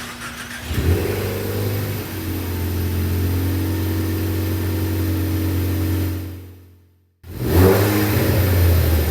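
2017 Ford Focus ST's turbocharged 2.0-litre four-cylinder running through an aftermarket AWE Track Edition exhaust: a short rev about a second in, then a steady, even drone. The sound fades out about six seconds in and, after a brief gap, comes back with another rev.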